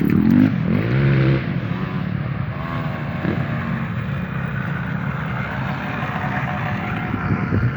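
KTM 50 mini motocross bike's small two-stroke engine revving up briefly at the start, then running at a steady buzz with small rises and falls in pitch.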